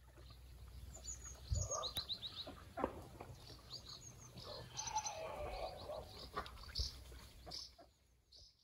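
Small birds chirping in quick, high, repeated notes, some in short rapid runs, over a steady low rumble.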